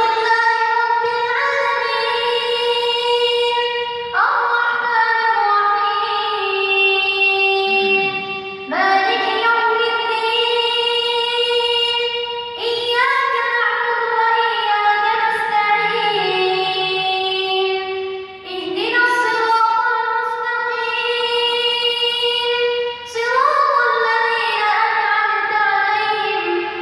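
A single high-pitched voice reciting the Quran in melodic tajweed style. It sings long, ornamented held phrases of several seconds each, with short breaks for breath between them.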